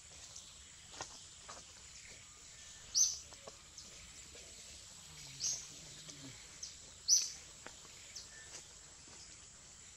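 A bird calling three times, short high chirps roughly two seconds apart, over a faint steady forest background hiss.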